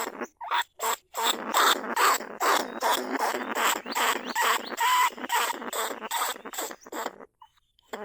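Caged small bandicoot rats calling with dense, rapid squeaking chatter. The calls break off briefly twice about half a second to a second in, then stop for a moment near the end.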